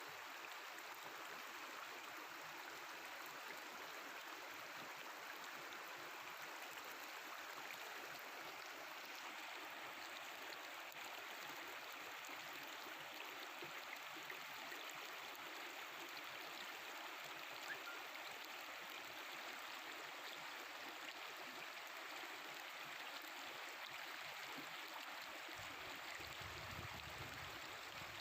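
Mountain river water flowing and babbling steadily over its bed.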